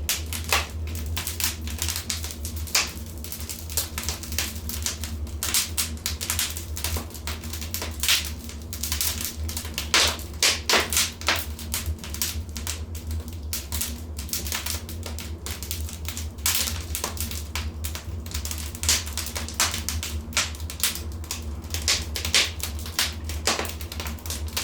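Wood fire crackling in a fireplace: irregular sharp pops and cracks, several a second, over a steady low hum.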